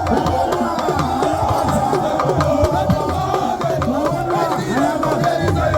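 Drum and percussion music with sharp, regular wood-block-like strikes. Many voices sound at once over it.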